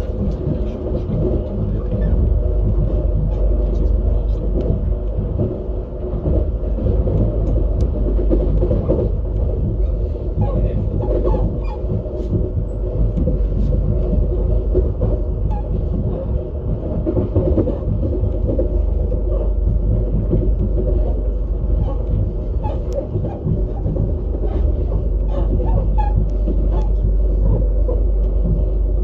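Lastochka electric train (Siemens Desiro RUS) running on the rails, heard from inside the carriage: a steady low rumble with a hum over it and faint scattered clicks.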